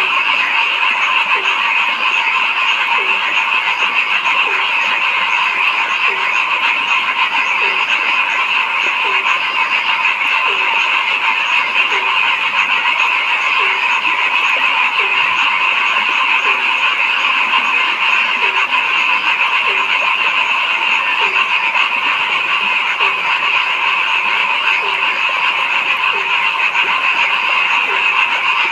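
A dense chorus of many frogs calling without a break, a steady trilling mass. Below it, a deeper single call repeats at an even beat, roughly once every second and a half.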